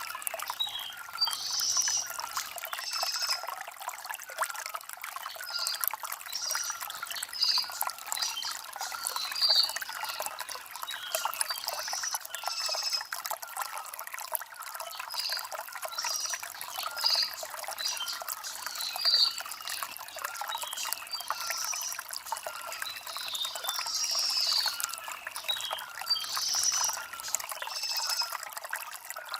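Stream water trickling and splashing steadily over river stones, with small birds chirping in short, repeated calls throughout.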